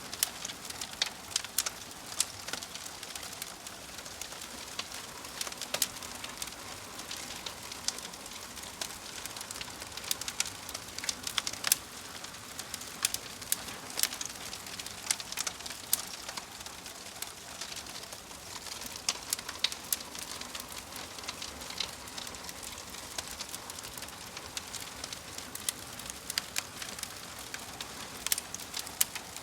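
Fire crackling: frequent irregular sharp pops and snaps over a steady soft hiss.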